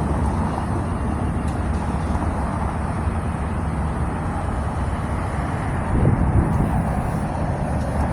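Steady low rumble of motor vehicles, an engine running with road traffic around it.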